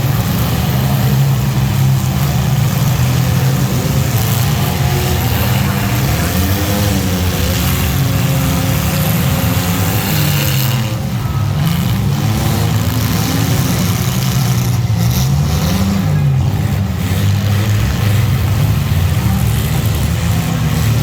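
Race engines of mini trucks, vans and SUVs running hard around a track, their pitch rising and falling over and over as they accelerate and lift.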